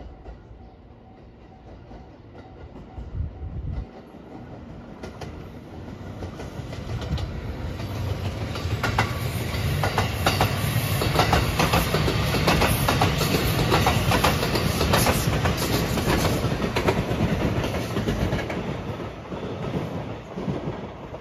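Marine Liner rapid electric train passing, its wheels clacking rhythmically over the rail joints. It grows steadily louder, is loudest about halfway through, and fades toward the end.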